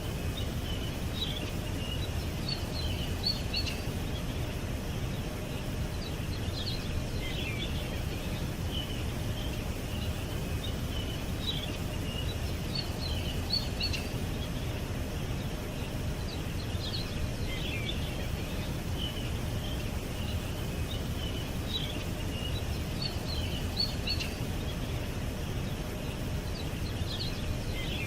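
Wild birds singing in short, high chirping phrases that come back every two to three seconds, over a steady low background rumble.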